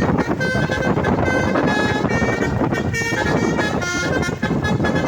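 Truck's basuri musical air horn tooting a tune of short held notes that change pitch every fraction of a second, over a loud steady rumble.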